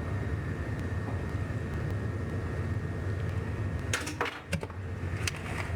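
A few sharp clicks and knocks about four seconds in, as parts of a dismantled TV/VCR combo are handled, over a steady low hum.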